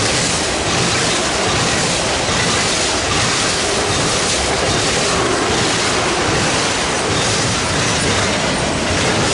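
BNSF freight train's cars rolling past close by, a loud steady rumble and hiss of steel wheels on rail.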